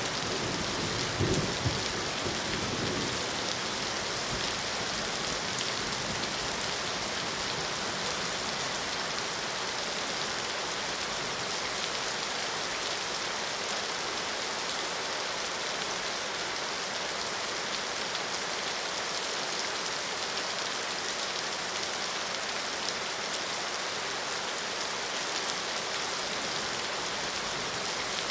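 Steady rain falling, an even hiss of drops, with a brief low rumble about a second in.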